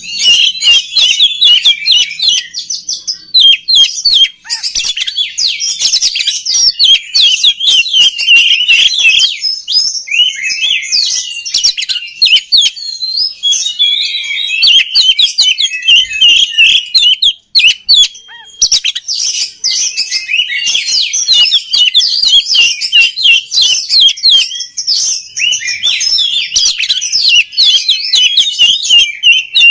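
Oriental magpie-robin (kacer) in full, vigorous song: a dense run of rapid, varied chirps, whistles and trills with barely a gap, broken once by a short pause a little past the middle.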